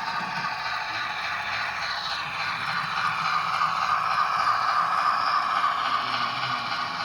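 Model train running along the layout track: a steady rolling, scraping noise of wheels and drive that swells from about three seconds in and eases off near the end.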